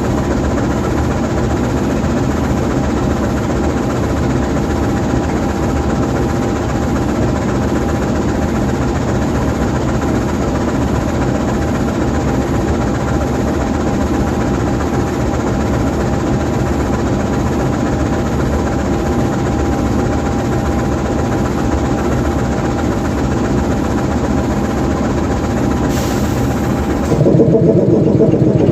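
GE U20C diesel-electric locomotive, its V12 diesel idling steadily while the locomotive stands still. Near the end there is a brief hiss, then the engine sound shifts abruptly and gets louder.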